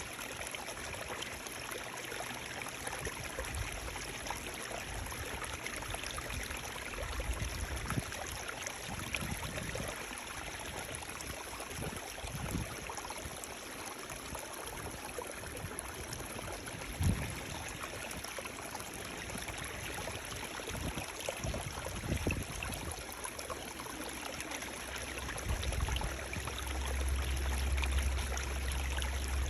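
Running water making a steady, even rush. Brief low thumps come several times, with a low rumble near the end.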